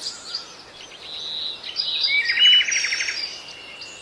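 Birds chirping and twittering in short whistled notes, with a fast trill, the loudest part, about halfway through.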